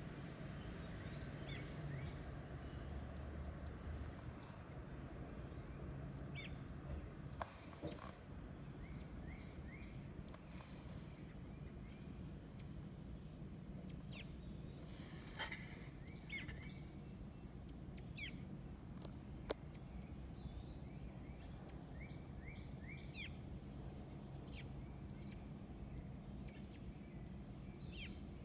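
High, thin bird calls, short notes repeated every second or two, with softer chirps lower in pitch in between, over a faint low background rumble.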